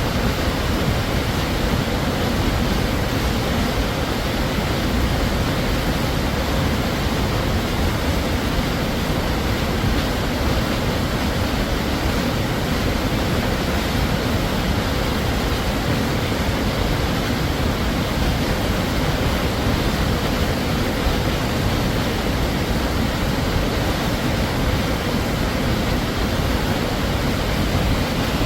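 Large waterfall pouring steadily: a dense, unchanging rush of falling water, full in the low end.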